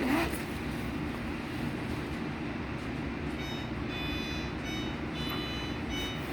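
Steady low rumble of a UTA train. From about halfway through, a series of short, high warning tones sounds over it.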